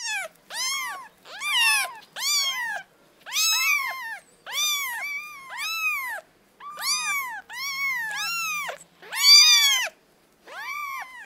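A cat meowing over and over: about fifteen short, high meows in quick succession, each rising and then falling in pitch.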